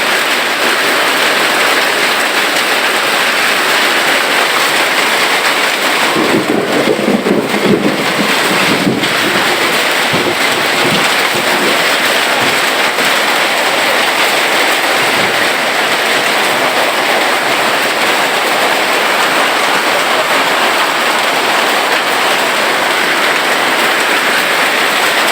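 Heavy hail falling with rain, a dense, steady, loud hiss of stones and drops striking the ground. A lower rumble rises under it for a few seconds about six seconds in.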